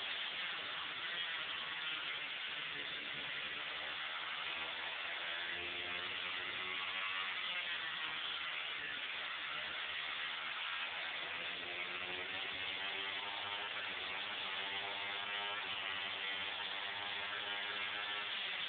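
Honda CBR1000RR Fireblade inline-four motorcycle engine in a Westfield Megablade under hard acceleration, rising in pitch and dropping back several times as it shifts up through the gears, with heavy wind hiss over the open cockpit.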